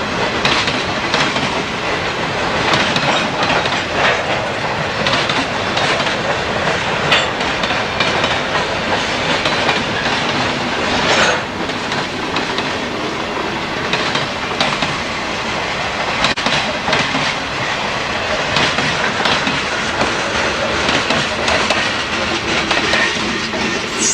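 Freight train cars rolling past, a steady rumble with the wheels clicking and clanking over the rail joints.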